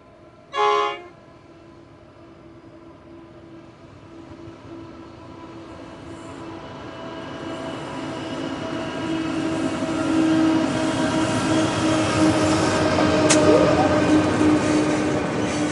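A short single blast of a diesel locomotive horn, then the engines of a Pacific National NR-class and 81-class locomotive pair running and the freight wagons rumbling, growing steadily louder as the train approaches and passes. There is one sharp click near the end.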